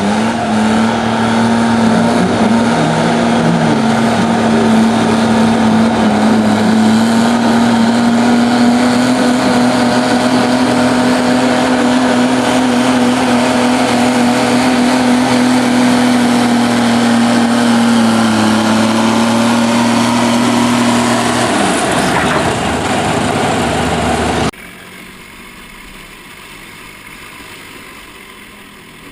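Diesel garden tractor engine running hard at steady high revs under load during a pull, then throttled down about three-quarters of the way through. After an abrupt cut, a much quieter engine sound follows.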